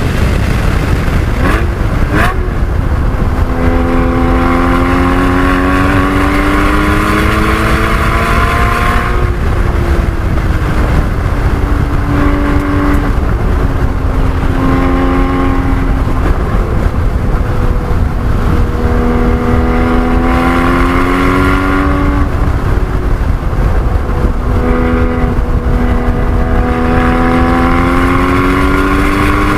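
Porsche 981 Cayman GT4's flat-six engine at full throttle on track, its pitch climbing in repeated pulls through the gears, with breaks between where it drops off for braking and corners. A heavy low rumble of road and wind noise runs under it throughout.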